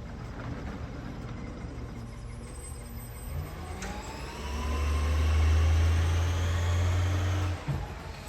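Garbage truck engine revving up from idle, held high for about three seconds with its pitch rising and falling, then dropping back abruptly.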